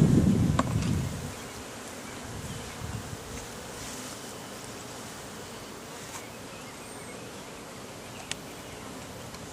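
Honeybees buzzing around an open hive as a steady hum. A brief low rumble fills the first second, and a few faint clicks fall later.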